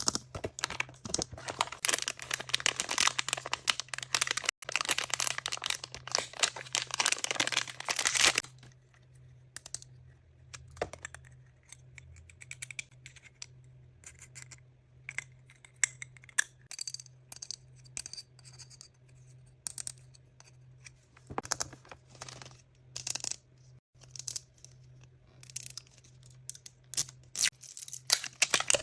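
Surprise-toy packaging being torn open and crinkled: dense crackling for about the first eight seconds, then scattered small rustles, clicks and taps as the wrapping and toys are handled, with crackling again near the end.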